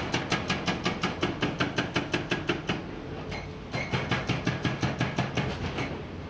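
Hydraulic breaker hammer on a Komatsu PC490 excavator pounding rock in a fast, even run of about seven blows a second, over the steady hum of the excavator's engine. The hammering pauses briefly about three seconds in, resumes, and stops near the end.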